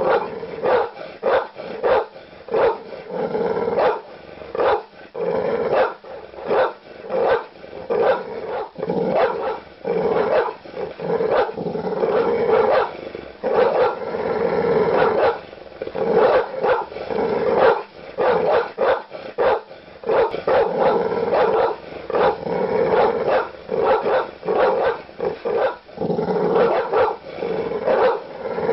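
A large dog barking aggressively, deep barks following one another in quick succession with barely a pause.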